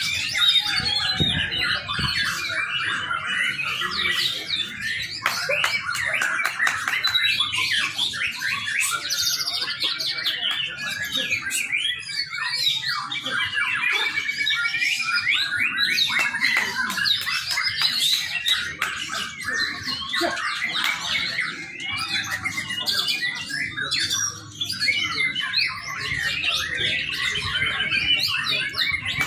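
Young white-rumped shama singing a continuous, varied song of quick chirps, whistles and harsher squawking notes, hardly pausing.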